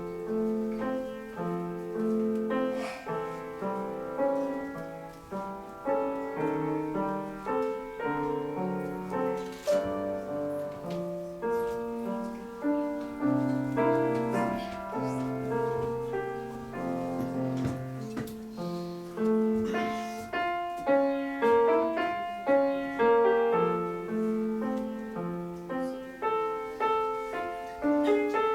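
Solo piano playing a continuous piece, a flowing run of many notes, with a few low bass notes held near the middle.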